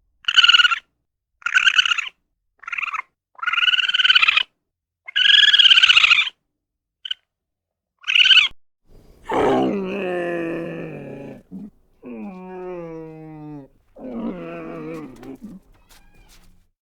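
Animal calls. First comes a run of about seven short, high-pitched cries with silent gaps between them. Then, from about nine seconds in, three longer, lower calls follow, each a second or two long, the middle one sliding down in pitch.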